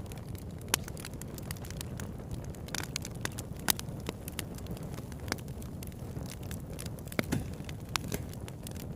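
Campfire burning: wood crackling, with irregular sharp pops over a steady low rumble.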